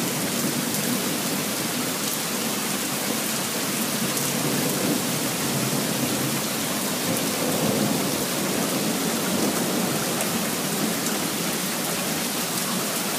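Heavy downpour of rain falling steadily, an even hiss of rain on surfaces, with a low rumble of thunder swelling slightly about halfway through.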